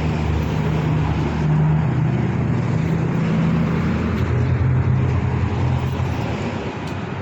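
Street traffic: a motor vehicle's engine runs close by with a steady low hum over road noise. Its pitch drops about four seconds in and the sound eases off toward the end.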